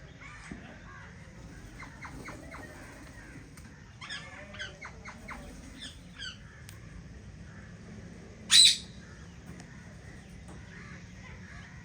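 Indian ringneck parakeets calling in an aviary: runs of short calls, then one much louder call about two-thirds of the way through.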